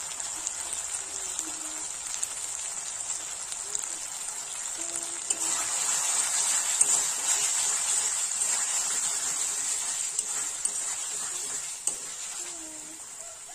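Spiced potatoes and tomatoes sizzling in oil in a kadai, stirred with a metal spatula. The sizzle grows louder about five seconds in and eases off near the end.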